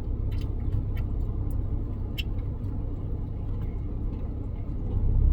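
Steady low rumble of a car heard from inside the cabin, with a few faint clicks. The rumble grows louder about five seconds in.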